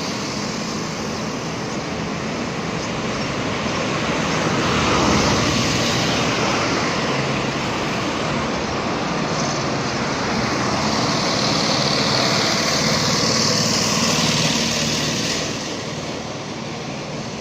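Street traffic noise, a steady wash of passing vehicles that swells a few seconds in and again past the middle, then eases near the end.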